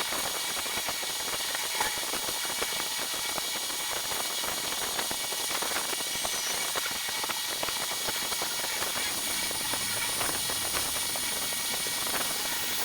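A steady hiss of compressed air escaping, with faint crackles through it.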